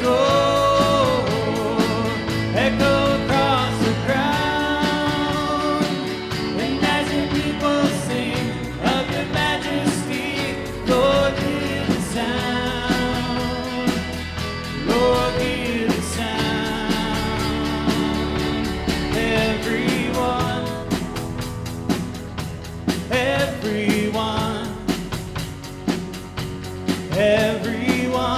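Contemporary Christian worship song: singing voices over instrumental accompaniment.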